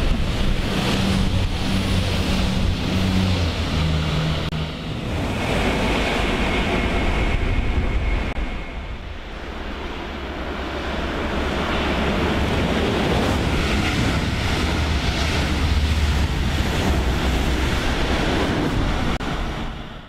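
A DB Class 648 diesel railcar passing close below, with a low engine hum in the first few seconds. Later a second regional train approaches and runs past with a swelling rumble. Rain and wind noise on the microphone run throughout, and the sound cuts off at the very end.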